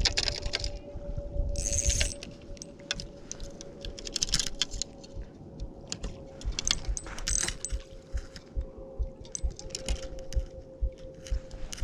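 Irregular light clicks and metallic rattling of fishing tackle being handled, over a faint steady hum.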